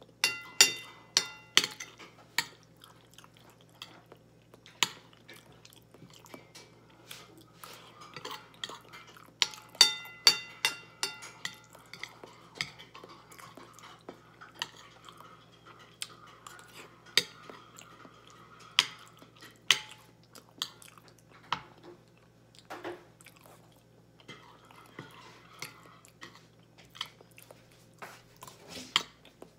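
Close-up chewing of baked macaroni, with a metal fork clinking and scraping on a plate. The fork taps ring out in quick clusters near the start and again about ten seconds in.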